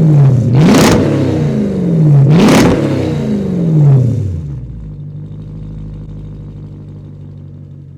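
Jaguar XK8's V8 engine blipped twice through the exhaust, the revs rising quickly and falling back each time, then settling to a steady idle after about four and a half seconds.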